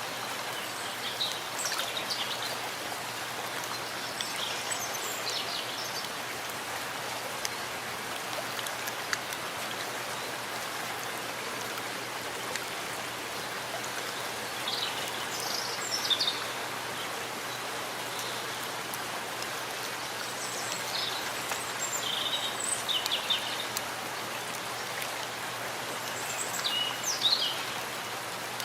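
Steady rain falling in a forest with water running and splashing, and a bird singing short high phrases about five times.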